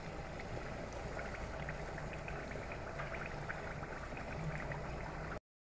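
Potatoes frying in hot oil, a steady sizzle with many small crackles. The sound drops out for a moment near the end.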